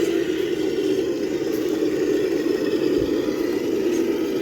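Electric motor and gear train of a radio-controlled rock crawler whining steadily as it drives slowly over the course, the pitch drifting slightly with the throttle.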